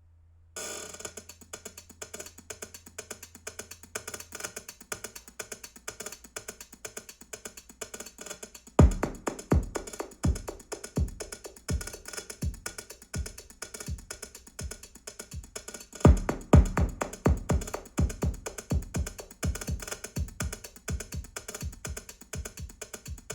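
Instrumental song intro played back over Qualio IQ open-baffle loudspeakers: a fast, even ticking percussion pattern starts half a second in, and heavy bass-drum hits join about nine seconds in, growing louder near the two-thirds mark.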